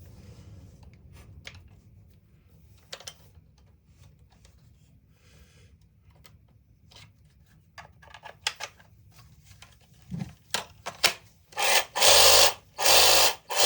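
Light clicks and rubbing of saw parts being handled and fitted, then near the end a reciprocating saw switched on in three short, loud bursts. The saw's worn head has just been shimmed with a piece of steel door hinge to take up play, and it runs much better than before.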